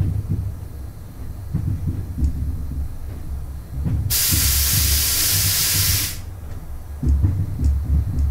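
Train running slowly over pointwork, heard from the cab: a low rumble with irregular clunks from the wheels. About four seconds in, a loud steady hiss starts sharply, lasts about two seconds and cuts off suddenly.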